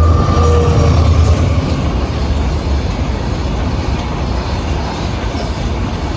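Train running on the track: a loud low rumble with rail noise that eases off gradually. A steady high tone stops about a second in.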